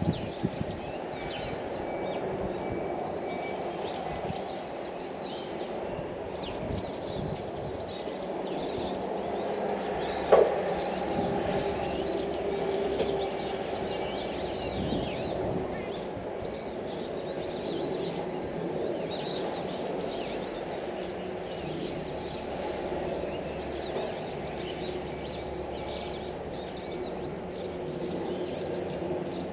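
Small birds chirping repeatedly over a steady low background hum of outdoor ambience, with a single sharp click about ten seconds in.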